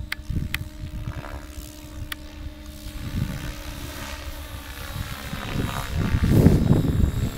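Align T-Rex 700E electric radio-controlled helicopter running, its rotor and motor giving a faint whine over low gusty buffeting that swells about six seconds in. A few sharp clicks come in the first two seconds.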